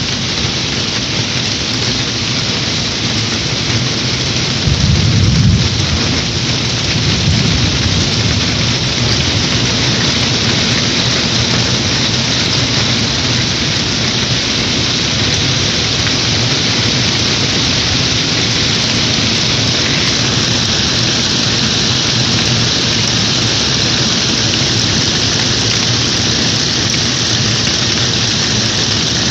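Heavy rain falling steadily, with a low rumble of thunder about five seconds in and a weaker rumble a couple of seconds later.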